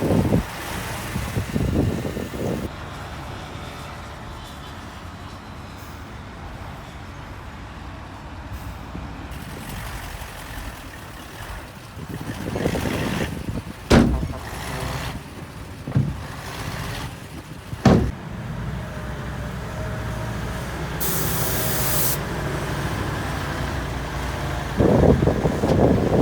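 Heavy diesel earthmoving machinery running with a steady low drone, with loud swells of engine noise and two sharp metallic clanks in the middle. Near the end comes a short burst of air hiss.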